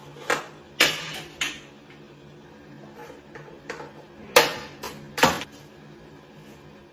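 Irregular clatter of hard objects knocking together, about ten sharp knocks over a faint steady hum, the loudest two near the end.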